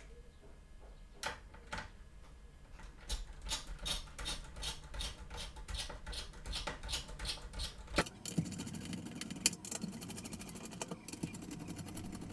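A few sharp clicks, then steady clicking about three times a second. From about eight seconds in, a small electric screwdriver's motor runs steadily with a rapid fine clicking, backing out screws.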